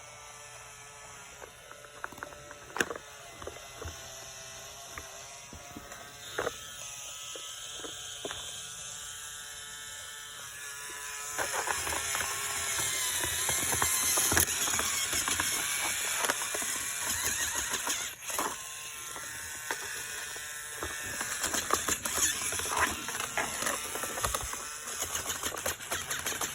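Battery-powered toy drill running with a steady whine, with plastic parts clicking now and then. About halfway through, a louder, busy rattling and clattering of plastic sets in.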